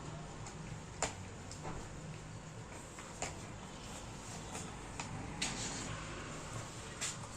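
Scattered light clicks and taps of small parts being handled during an induction cooker switch repair, several over a few seconds, over a low steady hum.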